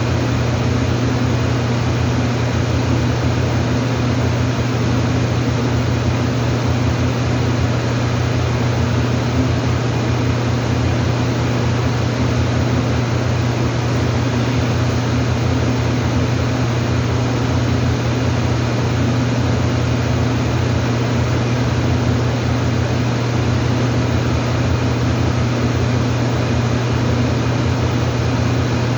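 Steady machine noise: a constant low hum under an even hiss, unchanging throughout.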